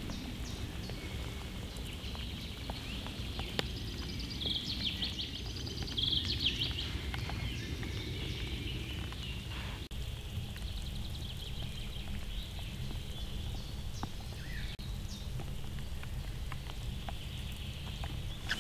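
Steady rain falling through spruce forest, drops pattering and dripping on the needles. A bird chirps a quick run of high notes a few seconds in.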